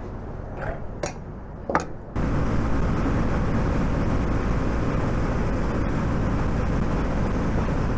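A few sharp clicks, then about two seconds in a sudden switch to the steady rush of wind and engine noise from a KTM 200 Duke motorcycle riding at speed.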